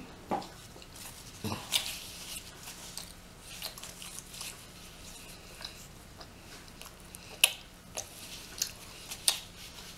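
Chewing close to the microphone, with scattered wet mouth clicks and smacks.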